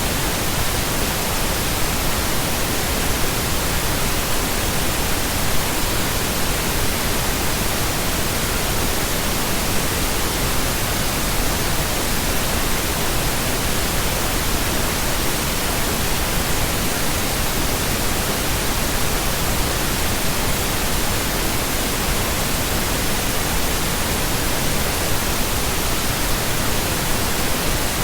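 Steady, unchanging pink noise: a continuous even hiss spread across all pitches, with no other sounds.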